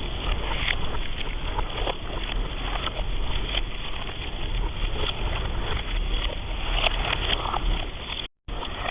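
Storm noise on the microphone: a steady low rumble of wind with scattered faint crackles, cutting out for a moment near the end.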